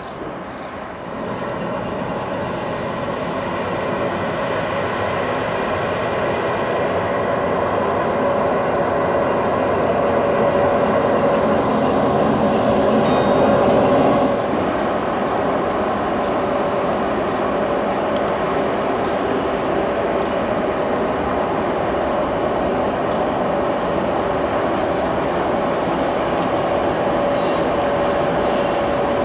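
Matterhorn Gotthard Bahn Ge 4/4 electric locomotive hauling a car-shuttle train of car-carrier wagons: a steady rolling rumble of wheels on rail with a thin, high wheel squeal held over it. It grows louder as the train comes closer, then changes abruptly about halfway through to another passing train at a steadier level.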